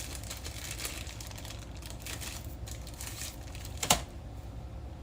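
Knife cutting cheese on a cutting board: light, irregular clicks of the blade meeting the board, with one louder knock about four seconds in.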